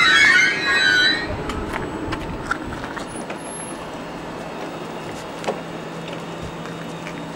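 Stockholm commuter train's brakes squealing, a loud wavering high squeal that cuts off about a second in as the train comes to a stop. Then the standing train's steady low hum, with scattered clicks and a short high beep.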